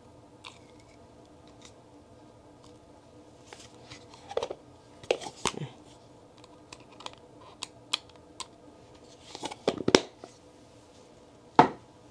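Small clicks and knocks of skincare bottles and caps being handled and set down, in scattered clusters with one sharper knock near the end.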